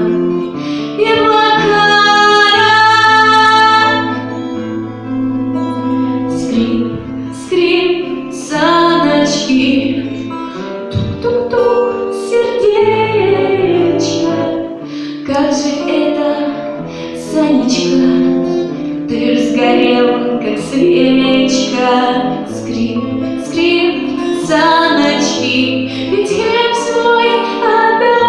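Music: a female voice singing a song over instrumental accompaniment.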